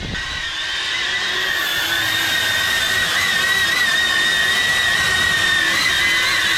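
Xpert Guard X8 multirotor drone flying: a steady high whine from its propellers and motors, wavering slightly in pitch and growing a little louder over the first second or so.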